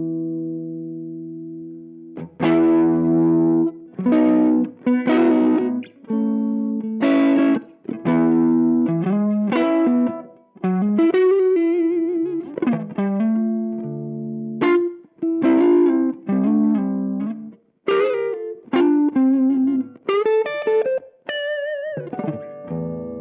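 Electric guitar played through a TC Electronic MojoMojo overdrive pedal. A ringing chord fades out, then about two seconds in come a run of struck chords and single-note phrases, some with vibrato, ending on a held chord.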